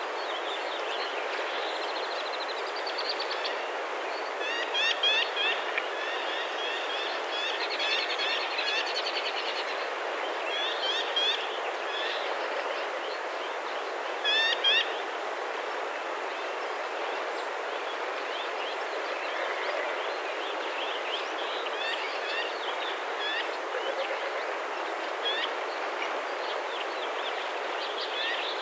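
Small birds chirping over steady outdoor background noise, with several short bursts of quick chirps in the first half and scattered single chirps later.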